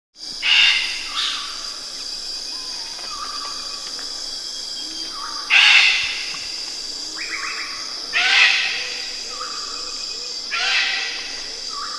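A bird giving loud, harsh calls, five in all, spaced a few seconds apart, with the first two close together. A steady high thin tone runs underneath.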